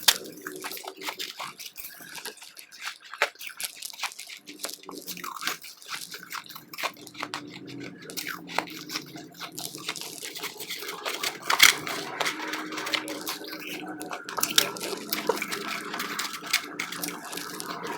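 Close-miked chewing of powdery, snowy ice: a dense run of sharp, wet crunches and crackles, with one loudest crunch about two-thirds of the way through.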